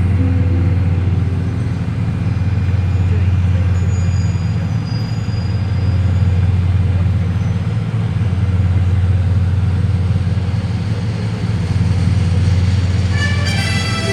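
Crowd chatter over a steady low rumble, with show music starting near the end.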